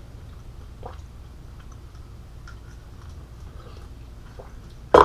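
People chewing and eating chicken at a table, with small faint clicks over a low steady hum. One loud sharp knock comes at the very end.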